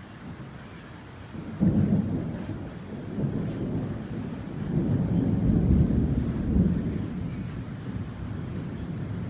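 Thunder cracks suddenly about one and a half seconds in and rolls on as a deep rumble, swelling again midway before easing, over steady rain.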